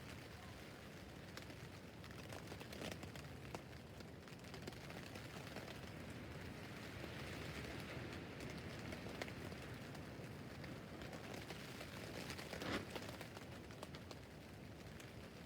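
Rain falling on a tent roof: a faint, even hiss with scattered ticks of single drops, one louder drop about thirteen seconds in.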